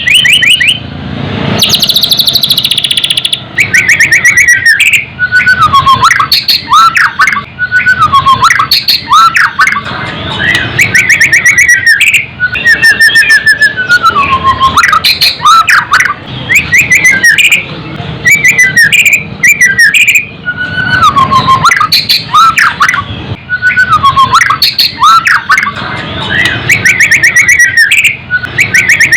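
White-rumped shama (murai batu) singing loudly and without pause: phrase after phrase of fast trills and whistled notes sliding down in pitch, with only brief breaks between phrases.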